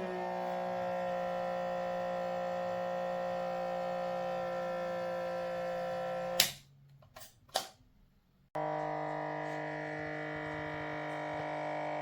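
Small electric motor running with a steady hum, cutting out about six seconds in with a few sharp clicks, then starting again abruptly about two seconds later at a slightly lower pitch.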